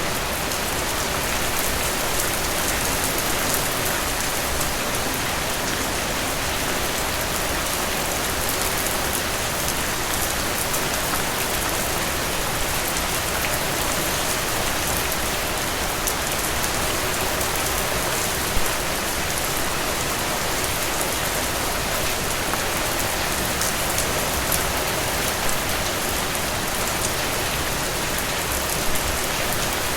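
Heavy rain falling steadily, a dense even hiss with individual drops pattering on a surface, and a few louder single drop hits.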